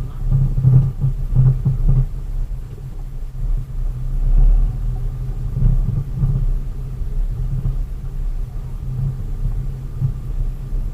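Vehicle engine and road rumble while driving, a steady low rumble that swells and dips.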